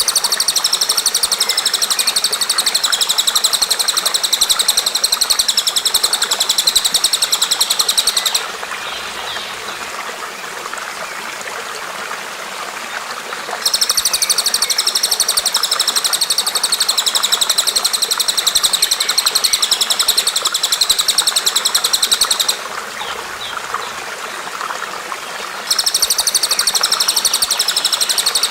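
Recorded songbird training song: a rapid, high-pitched trilling chatter sung in three long bouts, each several seconds long, with short pauses between them. A steady stream of running water goes on underneath throughout.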